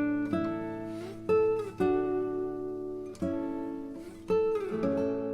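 Background music of chords played on a guitar, each chord struck and left to ring out, a new one every second or so.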